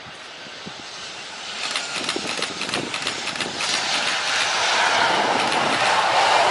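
Jet engines of a Boeing 737-900ER (CFM56-7B turbofans) rushing and growing steadily louder as the airliner comes in on its landing approach, with a rough crackle setting in about two seconds in.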